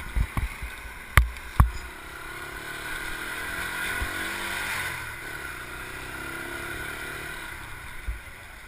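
An engine passes by, rising in level to a peak about halfway through and then fading, its pitch sliding as it goes. A few sharp knocks come in the first two seconds.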